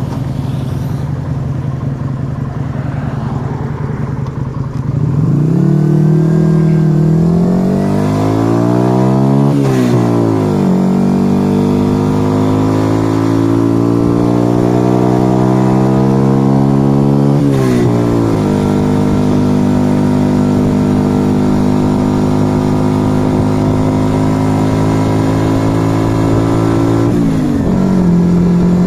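1997 Yamaha XV125 Virago's small air-cooled V-twin through an aftermarket Turbo Kit exhaust, running at low revs, then pulling away with the pitch climbing through upshifts about 10 and 18 seconds in. It then holds steady revs, with another drop in revs near the end.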